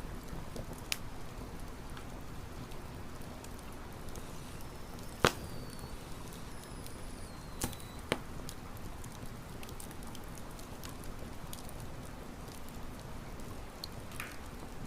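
Wood campfire burning with a steady low crackle, broken by sharp pops about a second in, just past five seconds and twice near eight seconds, and faint thin falling whistles in the middle.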